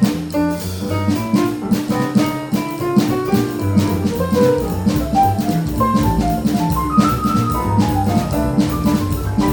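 Small jazz band playing live: drum kit and bass keeping time under a quick-moving melodic line of short notes.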